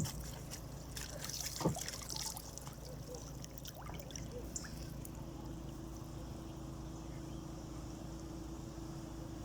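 Water dripping and splashing off a fishing net as it is hauled out of the water, with a few light knocks in the first couple of seconds. A faint steady tone comes in about halfway.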